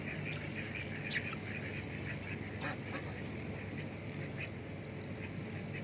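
Domestic ducks quacking in a run of short, quick calls that thin out after the first couple of seconds, with two sharp clicks in between.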